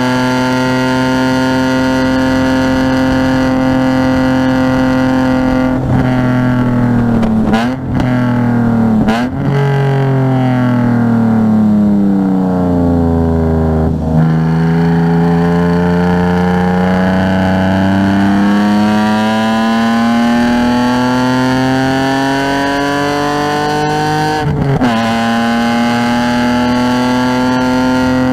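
Car engine driven hard on a circuit, held at high revs at first. Two quick downshifts with short jumps in pitch about 8 and 9 seconds in, as it slows for a corner. The pitch sinks to its lowest about 14 seconds in, then climbs steadily under acceleration until an upshift drops it sharply near the end, after which it climbs again.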